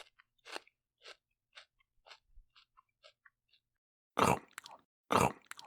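Crunchy food being chewed: a run of soft crunches about twice a second that fade away, then two loud crunches about four and five seconds in.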